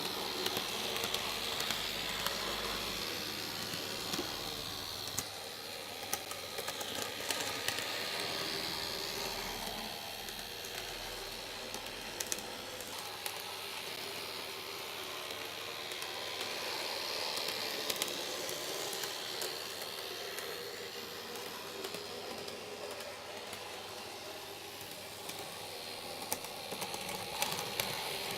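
N scale model train running on its track: a steady whirring hiss that swells and fades several times as it comes near and moves away, with scattered small clicks from the wheels on the rail joints.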